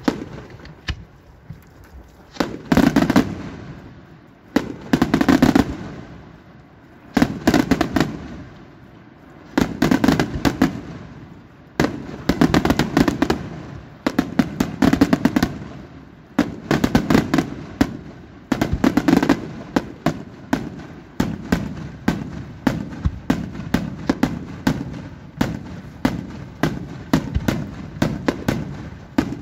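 Aerial fireworks shells of a daytime display bursting in volleys of sharp, loud bangs. Each cluster of reports comes about every two seconds at first; from about two-thirds of the way through, the bangs follow one another in a faster, steadier string.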